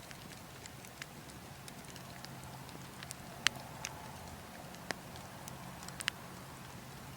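Burning logs crackling, with scattered small snaps and a few sharper pops (the loudest about halfway through, then a quick pair near the end), over a steady low wind rumble.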